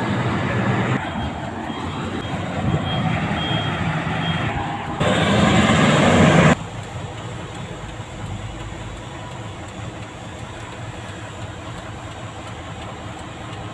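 A trailer truck's diesel engine running, with a loud, hissing burst about five seconds in that stops suddenly, after which the engine sound continues more quietly.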